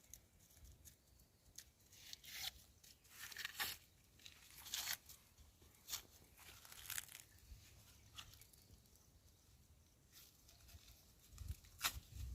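Dry maize husks and leaves tearing and crackling in faint, short bursts, irregularly spaced a second or so apart.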